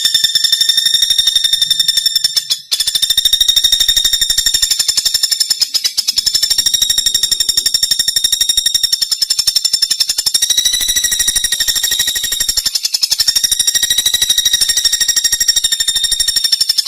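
Pelatuk bawang woodpecker calling in a continuous, very rapid high-pitched trill, a buzzing run of fast even pulses, with two brief breaks, one near the start and one about two-thirds of the way through.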